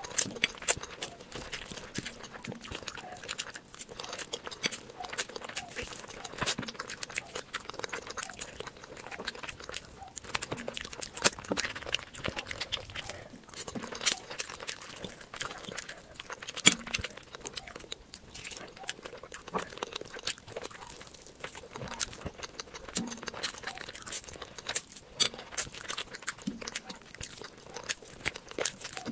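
Close-miked ASMR eating: a person chewing and smacking their mouth, many quick clicks with occasional louder ones.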